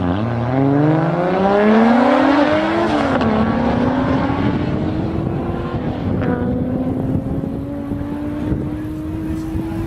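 A car's engine at full throttle, accelerating hard through the gears. The pitch climbs, drops sharply at an upshift right at the start and again about three seconds in, then rises slowly and steadily as the car pulls away.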